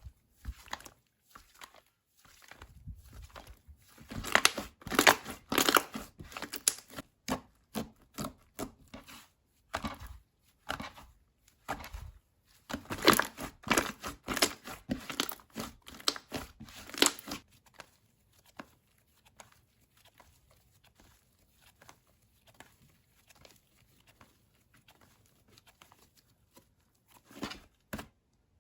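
Slime being squished, pressed and stretched by hand, making clusters of sticky crackling and clicking pops, with a quieter stretch of only faint clicks in the later part.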